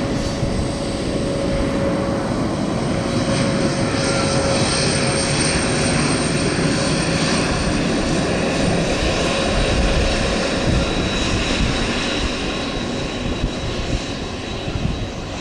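Boeing 767-300F freighter's twin GE CF6 turbofans at takeoff power: steady jet noise with a high fan whine, swelling to its loudest about ten seconds in, then easing.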